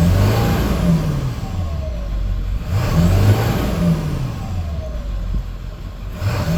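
2003 Ford F550's 7.3-litre turbo diesel V8 revved up from idle and let fall back, about every three seconds, its pitch rising and falling each time. A high turbo whine climbs and drops with each rev.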